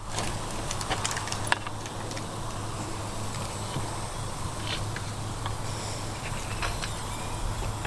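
Meat grilling over charcoal: a steady sizzling hiss with scattered small pops and crackles, over a steady low hum.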